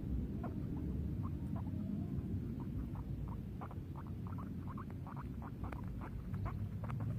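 Guinea pig squeaking: many short, quick squeaks that come faster in the second half, over a low background rumble.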